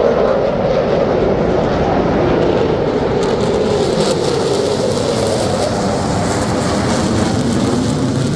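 Jet aircraft flying past overhead: a loud, steady roar whose pitch sinks slowly.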